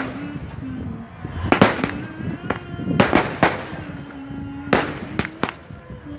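Fireworks going off: a rapid string of sharp bangs, several close together in the middle, with a wavering tone under them.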